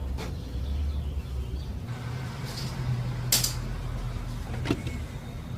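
A few sharp clicks and light knocks of metal engine parts being handled, over a steady low hum.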